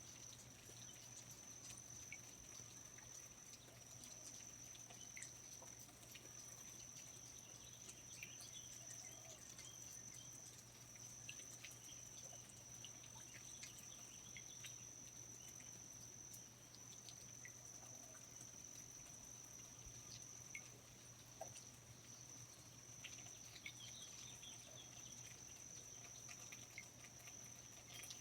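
Faint rainforest ambience: a steady, high-pitched insect trill that holds unbroken, over a low steady hum, with scattered soft drips and ticks.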